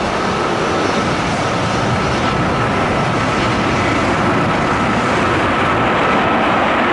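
Boeing 777 jet engines at departure thrust: a loud, steady roar with a faint high steady tone running through it.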